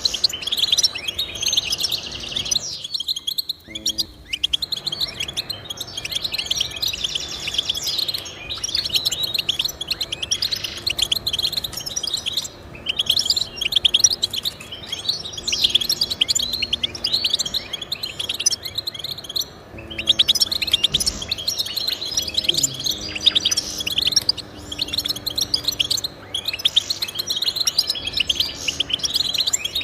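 Goldfinch singing a fast, continuous twittering song of high chirps and trills, with brief pauses about three seconds in and again near twenty seconds.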